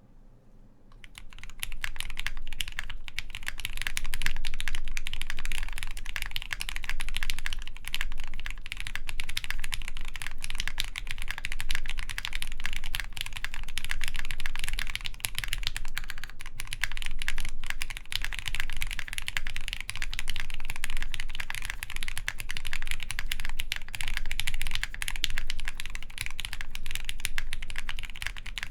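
Continuous typing on a Pixelspace Capsule mechanical keyboard with Krytox-lubed Gateron Hippo switches, a polycarbonate plate and GMK keycaps: a dense, steady run of keystrokes that starts about a second in.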